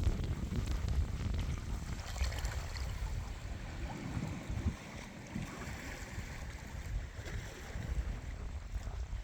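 Atlantic Ocean waves washing in, the surf hiss swelling twice, over a steady low rumble of wind on the microphone.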